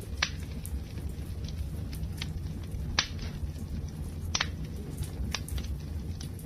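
Wood fire crackling over a steady low rumble, with a few sharp pops, the loudest about three seconds in, and smaller snaps between.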